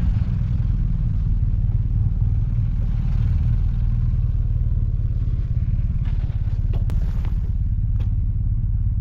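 Motorcycle on the move, its engine and road noise making a loud, steady low rumble that starts abruptly; a few faint clicks come through about six to eight seconds in.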